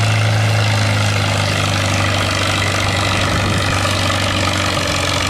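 Stock farm tractor's engine running hard and steady under load as it pulls the weight sled, a loud, even, low drone.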